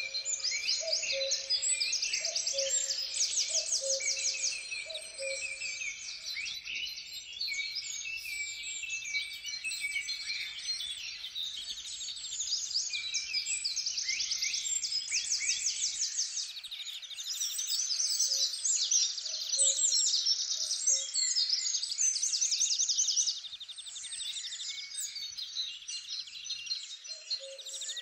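Forest songbirds singing over one another, a dense chorus of fast high trills and chirps. A lower two-note call repeats over and over in the first few seconds and again near the end.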